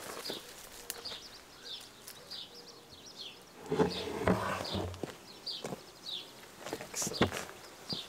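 A bird chirps over and over, about twice a second. About halfway through comes the scrape and bump of a wooden hive lid being lifted off, with a few sharp knocks near the end.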